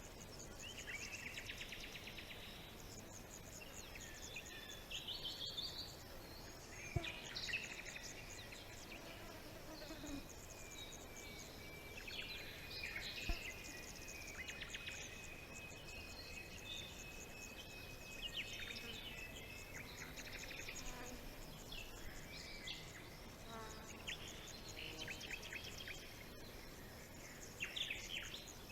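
Several forest birds singing and calling over one another in rapid trills and chirps, with a long steady high note held through the middle. Two brief sharp clicks stand out, one about a quarter of the way in and one near the middle.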